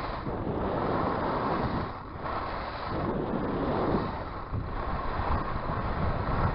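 Wind rushing over the microphone of a skier moving fast down a groomed run, mixed with the hiss of skis on the snow. The noise swells and eases every couple of seconds, with dips about two seconds in and again near the middle.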